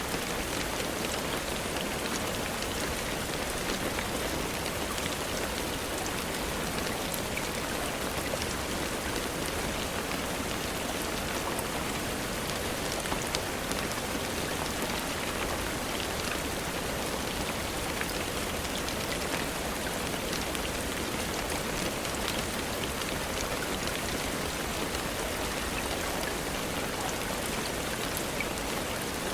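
Steady rainfall, an even hiss of rain with scattered small drop ticks.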